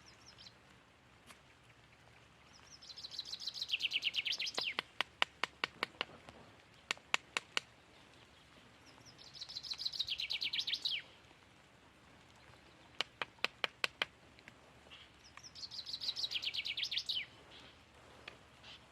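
A songbird singing a fast trill that falls in pitch, three times about six seconds apart. Between the songs come two runs of sharp, evenly spaced clicks, about four to five a second.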